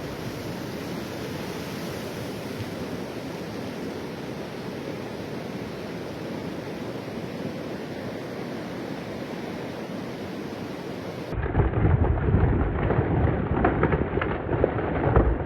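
Storm noise: a steady hiss like heavy rain. About eleven seconds in it is cut to a louder, deeper, gusting rumble of wind and rain.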